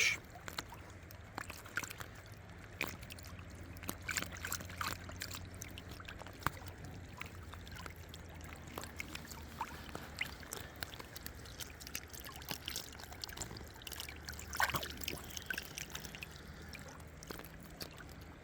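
River water trickling and flowing, with scattered small clicks and splashes and one brief louder splash-like sound near the end.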